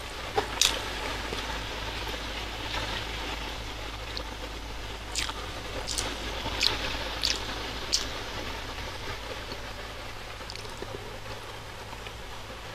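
Close-miked chewing of a mouthful of soft, thick sweet martabak manis (red velvet terang bulan), with wet mouth clicks and smacks, a run of them between about five and eight seconds in, over a steady hiss.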